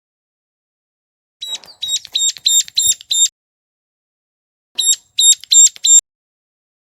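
Recorded ciblek gunung (mountain prinia) calls used as a trapping lure. Two runs of sharp, high, piercing notes, about four a second: about seven notes starting a second and a half in, then five more near the end, with dead silence between.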